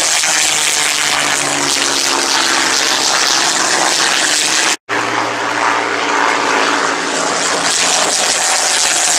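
Propeller-driven aircraft flying over, a loud steady engine drone with wind-like noise. About five seconds in it breaks off for an instant and then carries on.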